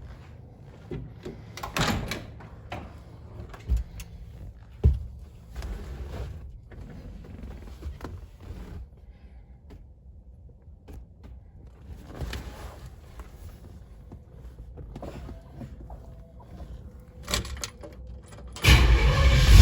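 Scattered knocks and clicks, then near the end a 1957 Chevrolet Nomad's engine fires abruptly and runs loudly on a cold start.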